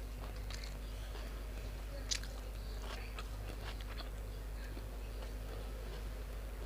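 A person chewing a mouthful of grilled pork (moo nam tok) and sticky rice close to the microphone, with scattered small clicks and mouth smacks, one sharper about two seconds in. A steady low hum sits underneath.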